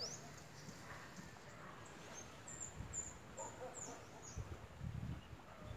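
Faint outdoor bird calls: a run of short, high, down-sliding chirps around the middle, with a few lower clucking notes mixed in. A few low rumbles come near the end.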